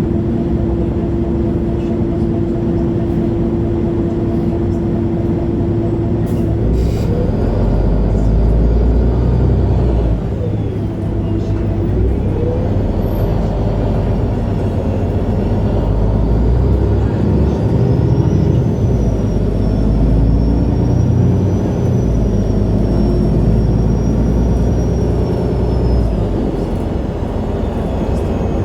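MAN A23 Lion's City G articulated bus's inline-six diesel engine, first idling with a steady hum, then a few clicks about six seconds in as the bus pulls away. The engine note rises and gets louder, dips briefly around ten seconds in at a gear change, and a high whine rises and wavers through the second half.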